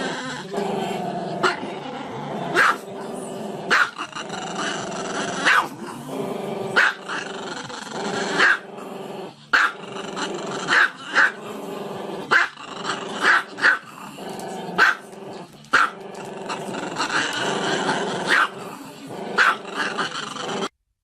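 A dog growling steadily, broken by short sharp barks about once a second. The sound cuts off abruptly near the end.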